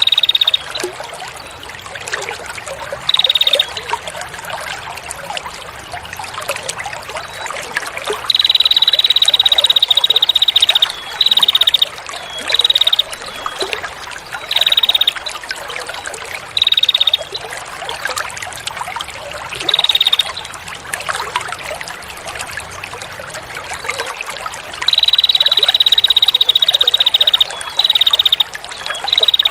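Steady trickling water with a recorded songbird's rapid, buzzy trill repeated over it. The trill comes in about a dozen phrases: most are short, and two long ones are each held about two seconds. This is a masteran song-training recording.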